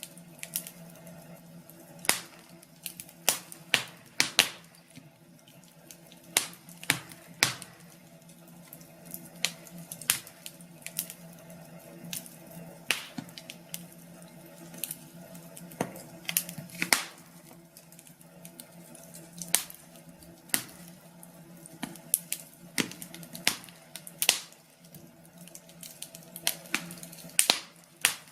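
Wood fire in a fireplace crackling, with sharp pops and snaps at uneven intervals, a few a second, over a faint steady low hum.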